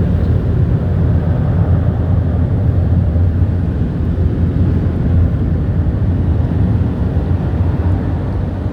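Automatic car wash air-dryer blowers running: a loud, steady rush of blown air over a strong low hum.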